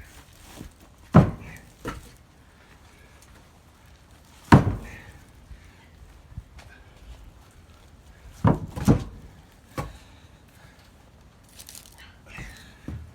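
Short pieces of cut firewood thunking down one at a time as they are stacked: about six separate knocks spread through the stretch, the loudest two near the start and about four and a half seconds in.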